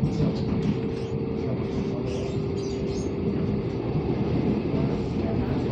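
Local electric multiple-unit commuter train running, heard from inside the passenger car: a steady rumble of wheels on track, with a thin whine during the first few seconds and light clicks and rattles.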